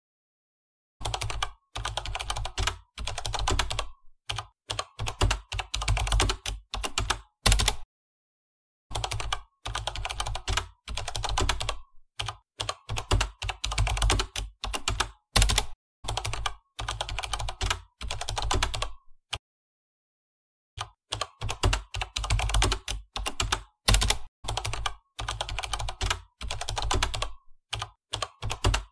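Typing on a computer keyboard: fast runs of keystroke clicks, broken by a few short pauses of complete silence.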